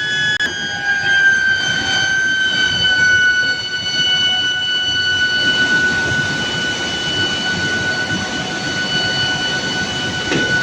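Induction billet heating furnace running, a steady high-pitched whine with overtones over general machinery noise. The pitch sags slightly over the first few seconds, then holds steady.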